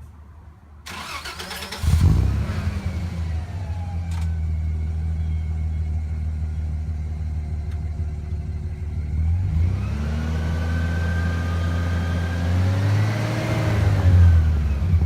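Toyota 1FZ-FE 4.5-litre inline-six in an FZJ80 Land Cruiser, heard through a 2.5 inch exhaust with one oval muffler and a hotdog resonator: the starter cranks for about a second, the engine catches with a brief loud flare and settles to a steady idle. About ten seconds in it is revved and held, then revved higher near the end and let fall back toward idle.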